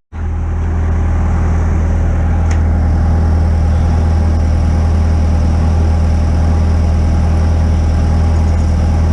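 Miller Big Blue engine-driven welder running at a steady speed, with an even hiss over the engine note. The sound starts abruptly after a momentary dropout.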